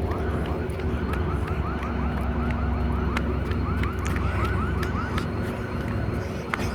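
Siren in a fast yelp: a high warbling tone pulsing about four times a second for about five seconds, over a steady low rumble.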